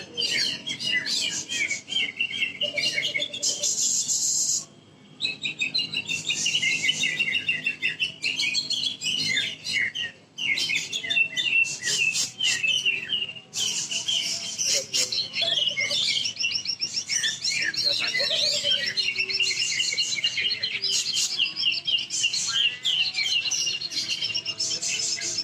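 Cucak ijo (green leafbird) singing a fast, dense, varied song of rapid chirps and trills in contest form, with a few short breaks.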